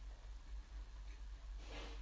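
Quiet chewing of soft arroz caldo (rice porridge with turkey meat) with the mouth closed, with one short, wet mouth sound near the end, over a low steady hum.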